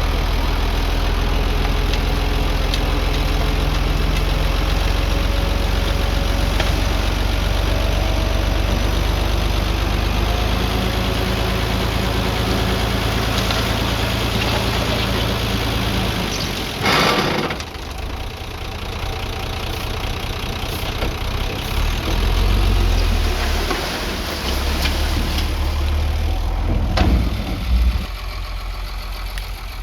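Diesel engine of earth-moving machinery running steadily. About halfway through comes a brief loud rush of noise, and the engine note then turns lower and uneven, swelling and easing, with two short louder jolts near the end.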